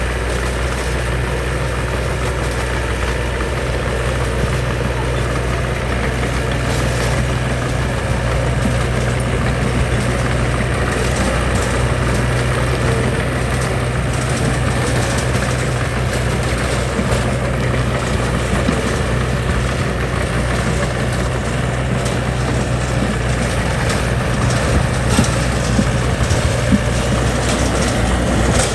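Heavy construction machine's diesel engine running steadily at a constant low note.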